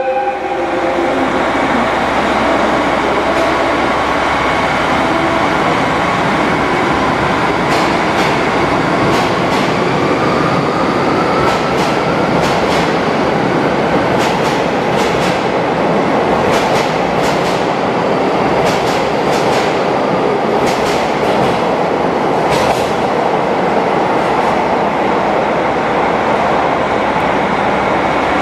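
Train running through the station, a steady rumble with a faint whine that rises in pitch, and a run of wheel clicks over the rail joints in the middle.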